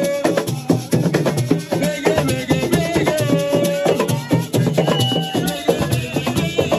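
Assiko music played live: fast, dense drumming with rattles shaking, and a few held notes sounding above the percussion.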